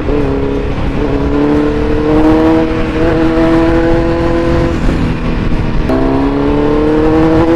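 Kawasaki Z900's inline-four through an Akrapovic full-system exhaust, pulling hard through the gears. The engine note climbs steadily, drops sharply at an upshift right at the start and again about six seconds in, then climbs again, with wind rumble over the microphone.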